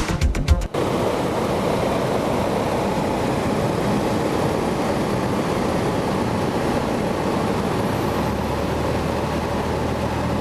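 Cessna 172 running steadily with rushing airflow, an even, unbroken noise; a low steady hum joins about eight seconds in. Music cuts off within the first second.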